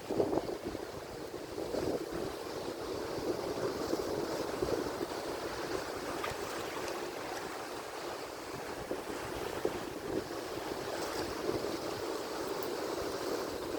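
Atlantic Ocean surf: waves breaking and washing in a steady rush, a little louder in the first second.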